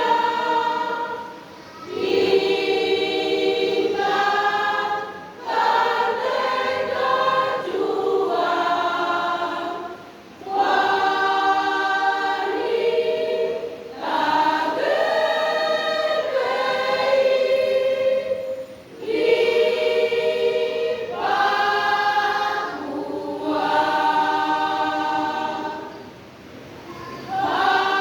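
Church choir singing a hymn unaccompanied, in sustained phrases with short breaths between them.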